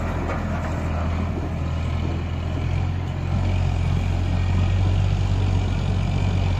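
Tractor diesel engine running steadily with a low, even drone, getting a little louder about three seconds in.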